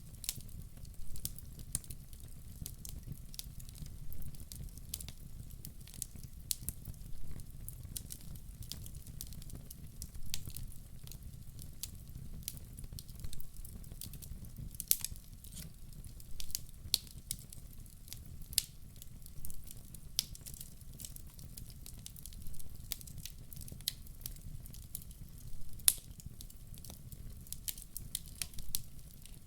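Wood logs burning in a fireplace, crackling with irregular sharp pops, two of them louder about halfway through and near the end, over a steady low rumble.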